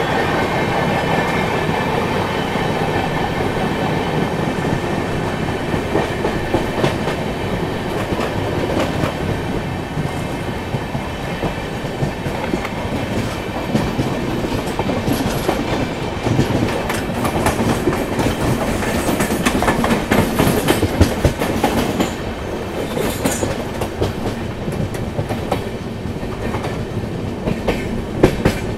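Express passenger train running along the track: a steady rumble with wheels clattering over rail joints and points, the clatter thickest in the middle stretch, and a thin high whine fading out over the first few seconds.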